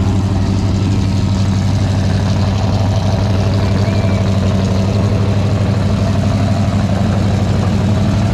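Car engine idling steadily, a low even rumble that holds one pitch throughout.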